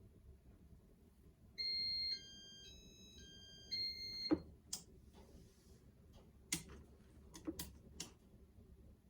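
A short electronic beeping tune of about eight stepped notes, followed by a handful of sharp clicks.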